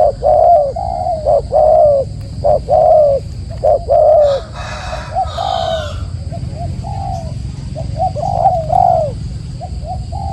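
A bird giving a rapid series of short, low cooing notes, each dropping in pitch, loudest and most closely packed in the first four seconds and coming more sparsely after that.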